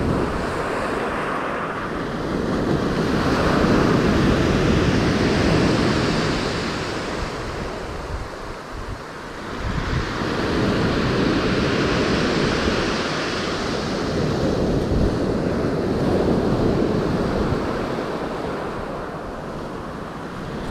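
Surf breaking and washing on a beach, swelling and easing in slow surges, with wind buffeting the microphone.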